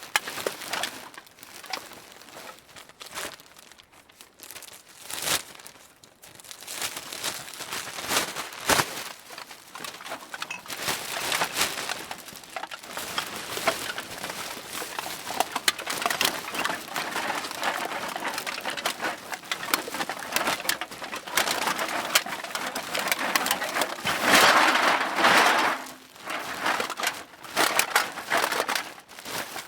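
Cans being dropped and shuffled into a bag: irregular clinks and clatters of the cans with the bag rustling, growing busier and loudest with a burst of rattling near the end.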